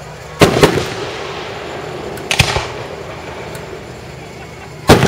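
Aerial fireworks shells bursting: three loud booms about two and a half seconds apart, each trailing off in a short rumble.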